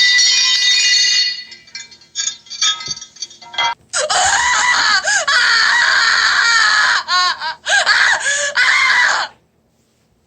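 A horror sound effect: a ringing chime that fades into scattered tinkling clicks, then a loud, high, wavering voice-like wail with sliding pitch for about five seconds. The wail cuts off suddenly near the end.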